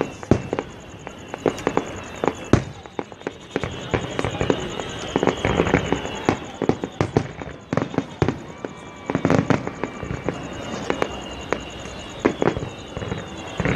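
Fireworks display: many sharp bangs in quick, irregular succession, several a second at times.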